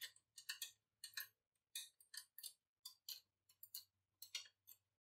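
A series of light, irregular clicks and taps, about two a second, from small parts being handled during hand work on an antique computing scale.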